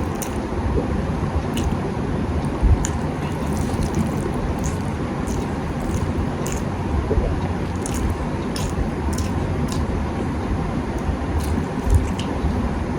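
Wet chewing and mouth smacks from someone eating rice with egg curry, short sharp clicks every second or so over a steady low rumble.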